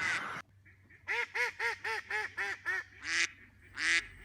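Ducks quacking: a quick run of about seven quacks, some four a second, then two single quacks near the end.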